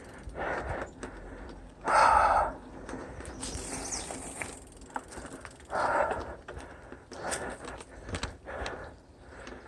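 A person breathing hard in short rhythmic puffs while climbing on foot, with two louder exhales about two and six seconds in.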